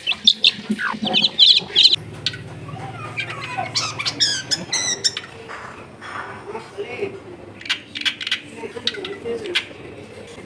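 Cendet (long-tailed shrike) calling in short, fast, high chattering runs of repeated notes, with sharp single clicks between them. This is the kind of shrike song played to warm up a cendet that has stopped singing.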